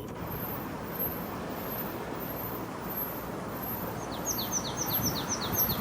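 Steady low background noise, and about four seconds in a small songbird sings a quick run of about eight short, high notes, each sliding downward.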